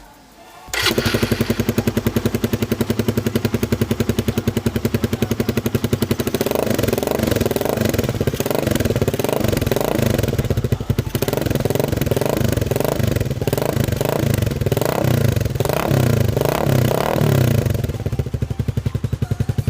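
Suzuki Raider 150 carb's single-cylinder two-stroke engine running through an aftermarket slip-on exhaust with its silencer insert fitted. It comes in about a second in and idles, then is revved over and over with quick throttle blips for about twelve seconds before settling back to idle.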